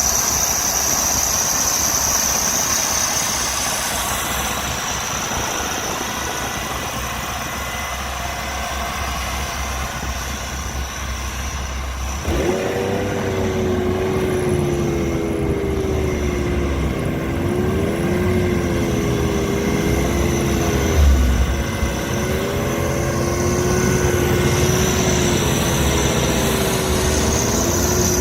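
Kirovets tractor's diesel engine running under load. About halfway through, a loud whine sets in that rises and falls in pitch as the engine works, and there is a low thud about three-quarters of the way through.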